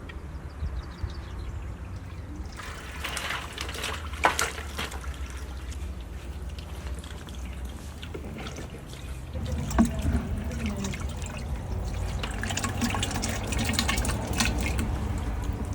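Water trickling and splashing, in uneven stretches, over a steady low rumble.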